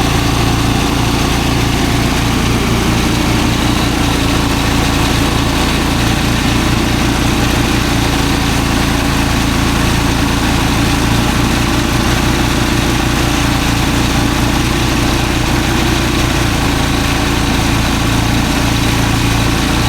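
Engine-driven rice threshing machine running steadily, its engine drone holding an even pitch throughout.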